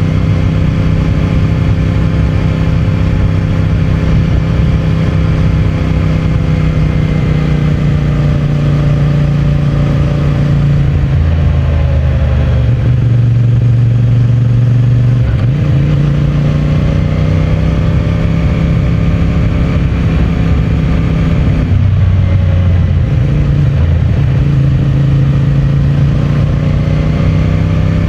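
CFMOTO 450MT's parallel-twin engine and stock exhaust running under way. The engine note drops away about eleven seconds in, climbs again a few seconds later, and dips briefly once more after about twenty-two seconds, as the rider comes off the throttle and picks it up again.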